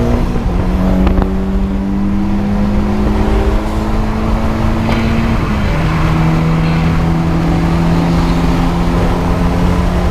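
Car engine running under steady load, heard while driving, its drone stepping down in pitch twice: just after the start and about six seconds in.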